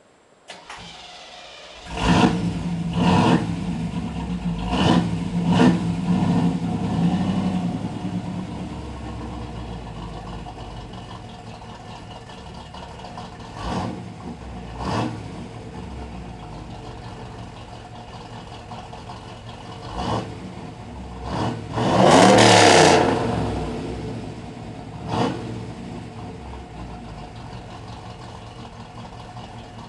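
1986 Camaro's 305 cubic-inch V8 breathing through a 3-inch Flowmaster exhaust, starting about two seconds in and blipped several times, then idling with occasional sharp throttle blips and one longer rev that rises and falls near the end.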